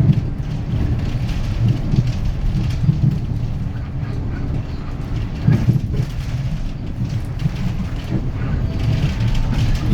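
Inside a Hyundai Green City city bus under way: a steady low rumble from its D6GB six-litre-class diesel engine and drivetrain, mixed with road noise, rising and falling slightly.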